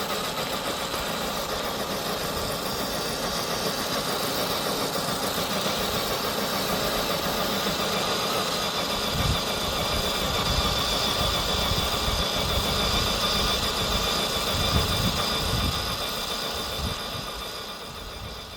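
Electric motor and gearbox of an FMS FJ40 RC scale crawler running with a steady whine, with low rumbles in the middle and the sound dying away near the end.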